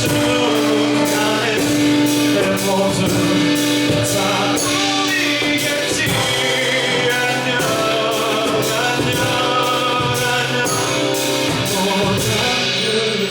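Live song performance: a male singer over instrumental accompaniment, with a steady percussion beat.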